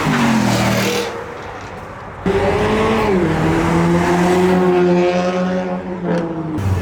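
Car engine revving hard during a burnout. It lifts off about a second in, snaps back to high revs a little after two seconds and holds there, with tyre squeal.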